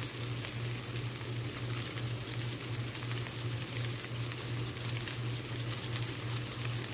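Shredded boiled chicken frying in oil in a pan, a steady sizzle full of fine crackling pops as it browns.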